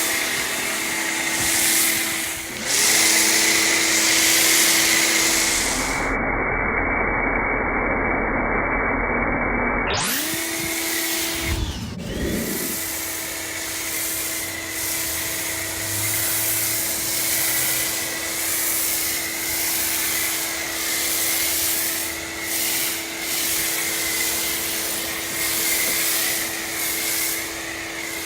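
Pressure washer running steadily with a foam cannon: a constant motor whine under the hiss of the spray. The sound goes dull for a few seconds about midway.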